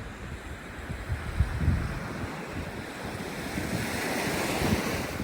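Surf washing up on the beach, with wind gusting on the microphone in low rumbles; the wash of a wave swells near the end.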